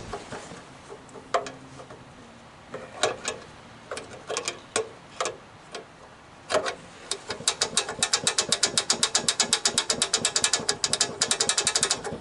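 Socket ratchet wrench clicking, a few separate clicks and knocks at first, then a fast even run of about eight clicks a second from about seven seconds in, as a bolt is worked on.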